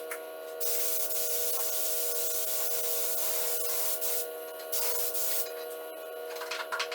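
Paint spray gun hissing as it lays on clear coat: one long pass of about three and a half seconds, a shorter burst after it, and a few short puffs near the end, all over a steady hum.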